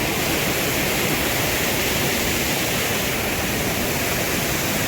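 Steady, even rush of water, with no breaks or separate drops standing out.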